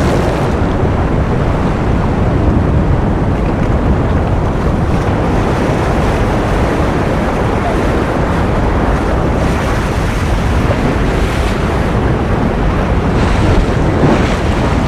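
Ocean surf as continuous white noise: a steady, dense rush strongest in the low range, swelling slightly near the end.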